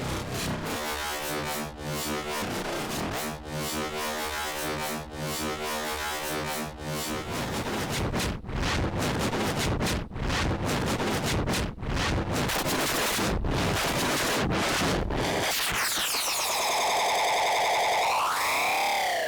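Make Noise Echophon pitch-shifting echo in self-feedback, its settings sequenced by the Brains and Pressure Points modules: a harsh, noisy feedback texture with held pitched tones in the first half, then noise that cuts out briefly again and again. Near the end it turns into a warbling pitched tone that sweeps up and swoops down.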